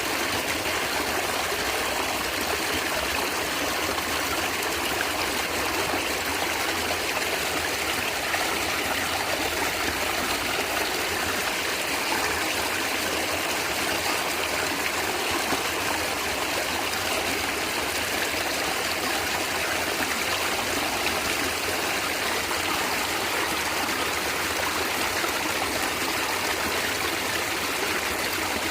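A natural stream of water flowing and gurgling steadily.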